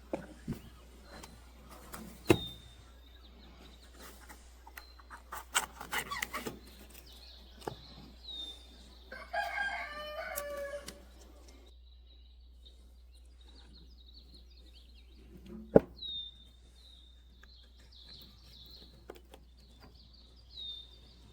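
Birds calling: short high chirps repeat, and about nine seconds in there is one longer, lower call of about two seconds. A few sharp knocks stand out, loudest a little over two seconds in and again near the end.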